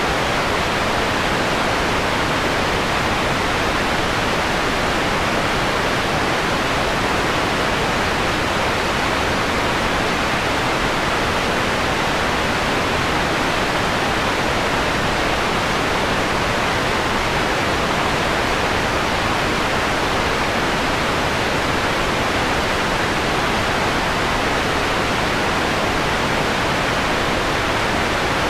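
Steady synthetic white noise, filtered so the highest hiss is softened toward a mellower, pink-noise-like tone. It holds level and even, without change.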